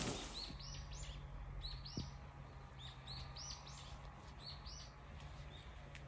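A songbird singing short phrases of quick, high chirping notes, four phrases about a second and a half apart, growing fainter near the end. A faint steady low hum lies underneath.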